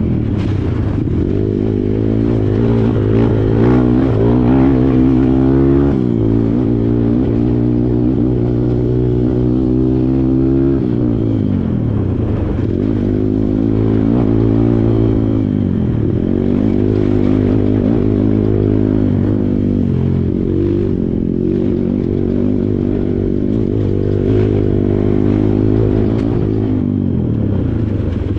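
Kawasaki KLX140 dirt bike's single-cylinder four-stroke engine running under constant throttle changes, its pitch climbing and dropping back again and again, with some rattling from the bike.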